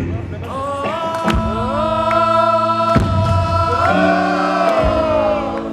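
Live band music: a long sung note held over steady bass notes, sliding down in pitch near the end, with a sharp drum hit about three seconds in.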